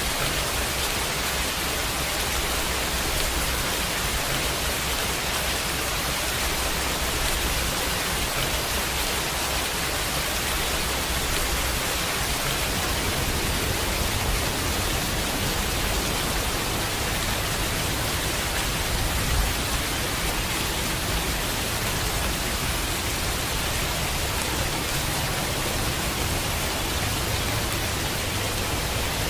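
Steady, heavy rain: a dense, even hiss of falling rain with no single drops or events standing out.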